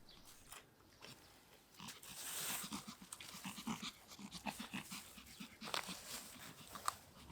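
A dog panting in quick, short breaths, starting about two seconds in, with a couple of sharp clicks near the end.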